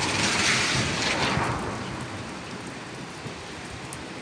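Thunder rumbling, loud at first and fading away over the first two seconds, leaving a steady hiss of rain.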